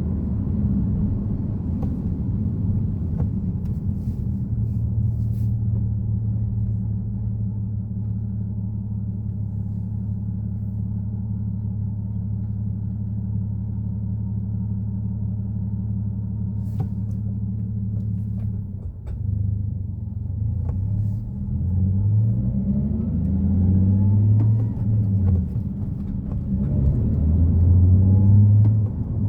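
Nissan Fairlady Z34's 3.7-litre V6 engine on the move: a steady low cruising drone for most of the time, then after a brief drop the engine pitch rises and falls several times near the end, as in accelerating up through the gears.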